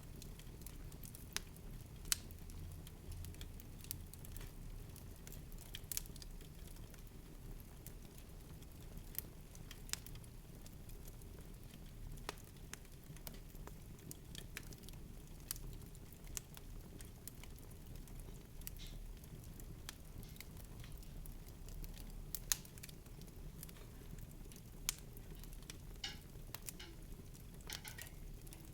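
Sparse soft crackles and clicks over a low, steady rumble, with a brief wavering sound near the end.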